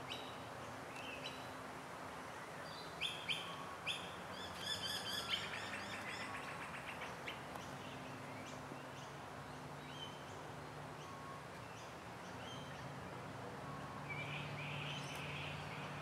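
Birds chirping in the background: scattered short calls and a quick trill about four to five seconds in, over a faint steady low hum.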